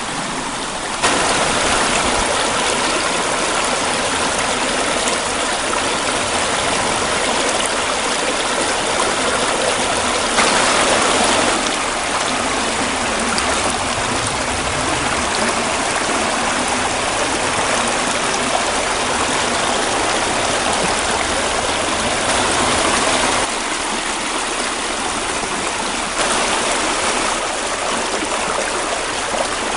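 Steady rushing water, like a stream or small waterfall. It jumps up in level abruptly about a second in and again around ten seconds, then drops back after about 23 seconds.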